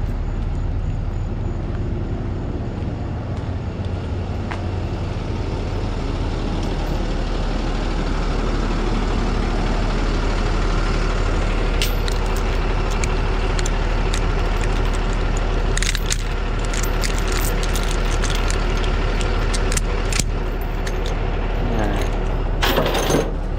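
Truck engine idling steadily. From about halfway through, metal tie-down hardware clinks and rattles in short bursts.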